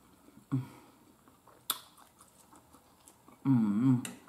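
Quiet chewing and mouth sounds from someone eating, with a short hummed 'mm' about half a second in and one sharp clink of a fork on the metal baking pan. Near the end comes a louder, wavering hummed 'mmm' of enjoyment.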